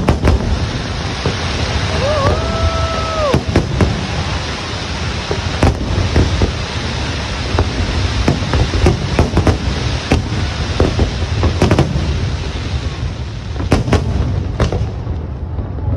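Fireworks display going off without pause: dense, rapid bangs and crackling over a steady low rumble of bursting shells. One held whistle-like tone sounds about two seconds in.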